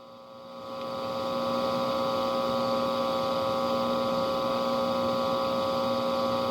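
A steady held drone of several fixed pitches swells in over about a second and a half, then holds level.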